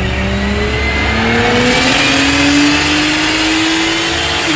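A car engine on a chassis dyno making a full-throttle pull, its note climbing slowly and steadily under load through one gear. Near the end the pull ends and the note drops away.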